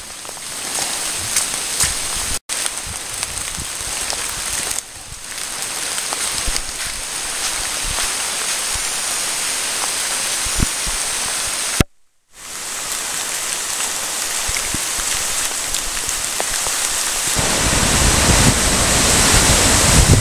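Heavy rain, a steady hiss with drops striking the waterproof camera. Wind starts buffeting the microphone with a low rumble in the last few seconds; the sound cuts out briefly twice.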